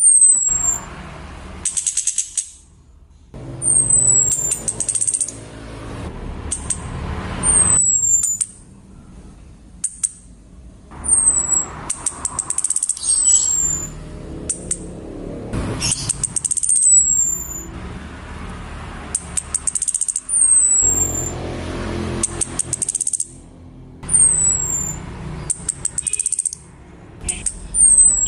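Female chestnut-capped thrush (anis kembang) calls used as a lure to get males singing: short, thin, high falling whistles repeated every two to four seconds, between bursts of rattling chatter.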